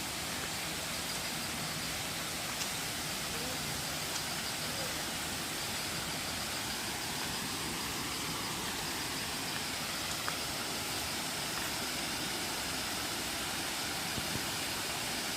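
Waterfall: water falling and rushing with a steady, unbroken roar.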